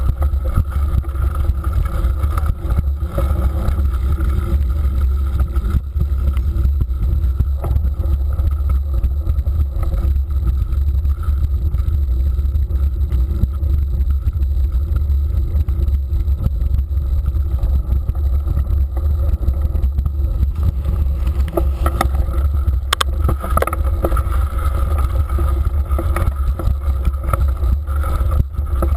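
Steady, loud rumble of wind buffeting a ride-mounted camera microphone while a mountain bike rolls along a muddy street, with a few sharp knocks about three quarters of the way through.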